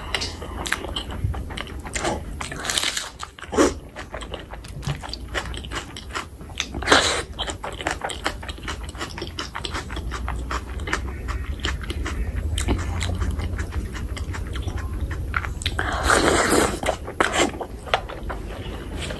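Close-miked chewing of a mouthful of rice and curried chicken skin: wet lip smacks, squelches and crunching bites. There is a louder crunch about sixteen seconds in.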